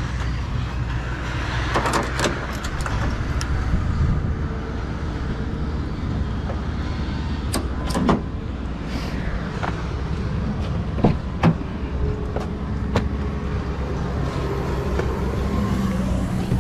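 A vehicle engine idling with a steady low hum, with scattered sharp clicks and knocks.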